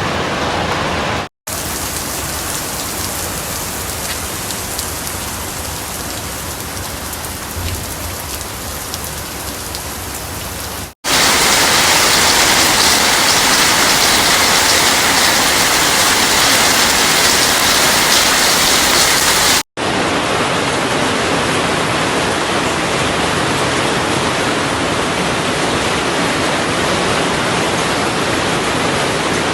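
Heavy rain pouring down, an even hiss, in several clips joined by short cuts; the stretch in the middle is the loudest.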